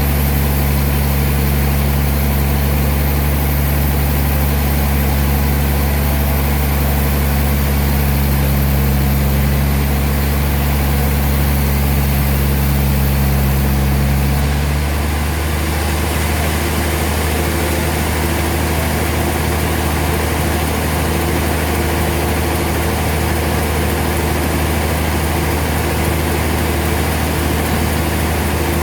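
Sawmill machinery running steadily with a low, engine-like hum. Its tone shifts and drops slightly about halfway through.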